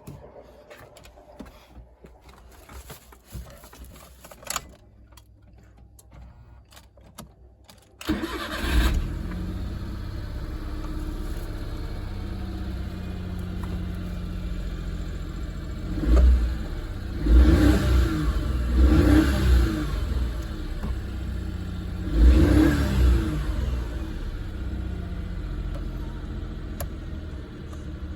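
A Suzuki Every DA52V kei van's three-cylinder engine starts after a few seconds of faint clicks, catching almost at once. It idles, is revved in several short blips, then settles back to a steady idle.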